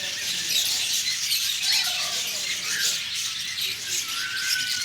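A flock of small parrots chattering and chirping together: many short overlapping high calls, with one clearer whistle near the end.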